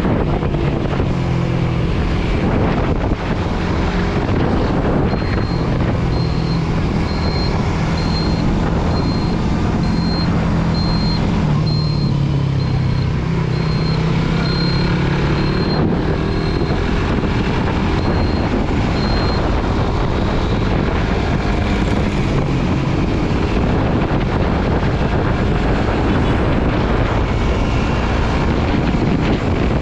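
Suzuki GSX-R150's single-cylinder engine running at steady cruising speed, under heavy wind rush on the microphone. From about five seconds in, a high electronic beep repeats about once a second for some fifteen seconds.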